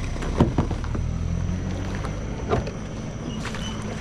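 A kayak's electric trolling motor running with a steady low hum, with two short knocks against the hull.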